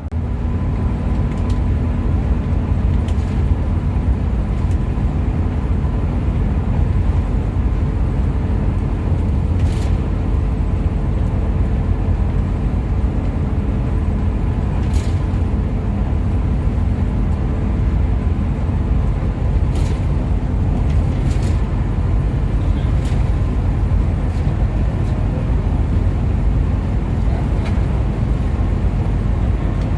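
Steady low rumble of a Hino RM 280–engined coach under way: engine and road noise, with a few short clicks here and there.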